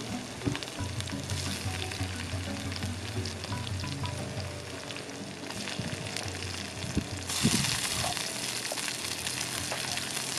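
Tapioca-dough pieces being dropped into hot oil and fried spice paste in a black iron pan, sizzling steadily. The sizzle grows louder about seven seconds in as more pieces go in.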